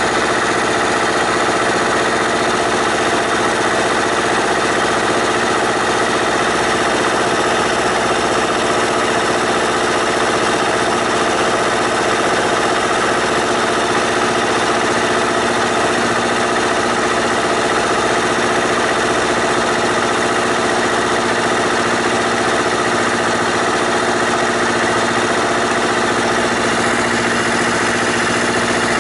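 Honda CBR250RR (MC51) parallel-twin engine idling steadily through an aftermarket full exhaust system, holding an even engine speed throughout.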